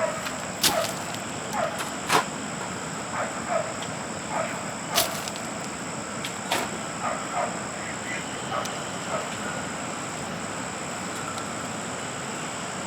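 Farm animals giving scattered short calls, with a few sharp clicks, over a steady high-pitched hum.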